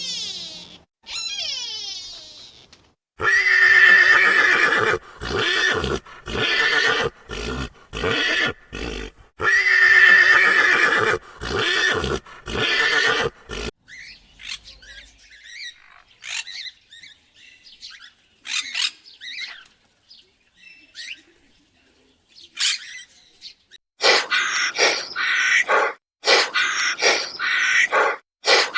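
A series of loud animal calls, each lasting about a second or two with short gaps between them, then fainter chirps, then a quick run of short repeated calls near the end.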